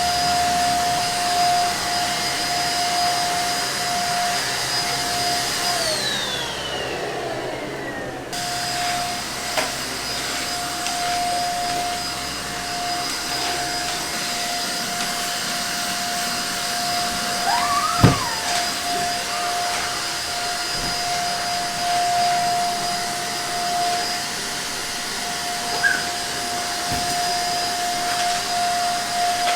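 Household vacuum cleaner running with a steady high whine. Its motor winds down about six seconds in and comes back on sharply about two seconds later. There is a single sharp knock about eighteen seconds in.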